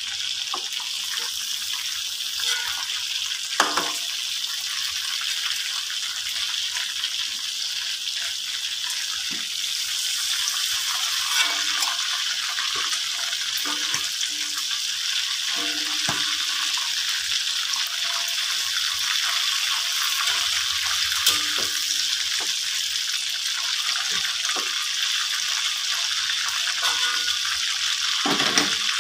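Chicken pieces deep-frying in hot oil in a wok, a steady sizzle. A slotted metal spatula taps and scrapes against the wok now and then as the pieces are turned and lifted out.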